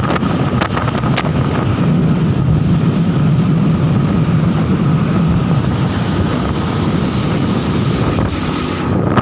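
Strong wind buffeting the microphone on a moving motorcycle, over the steady running of the motorcycle and its road noise. The noise holds steady, with a few brief crackles.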